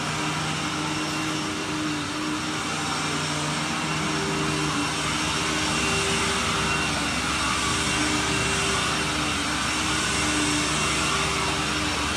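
Carpet-cleaning machine's vacuum running steadily, drawing air through its hoses with a rushing sound over a motor hum. It gets slightly louder about five seconds in.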